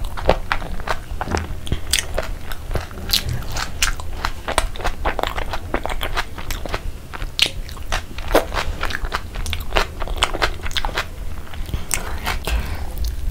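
Close-miked crunchy chewing of a chicken burger stacked with raw cucumber, onion and capsicum: a dense, irregular run of crisp crunches.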